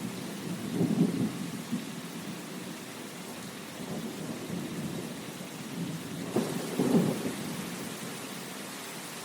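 Steady rain with low rumbles of thunder: one about a second in, and a louder one that starts sharply a little after six seconds.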